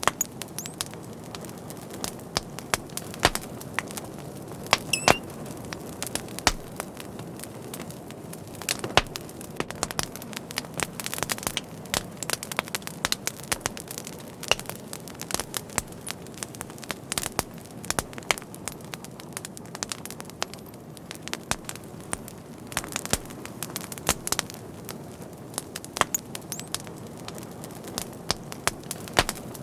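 Fire crackling steadily: irregular sharp pops and snaps, some louder than others, over a soft hiss, with a brief high whistle about five seconds in.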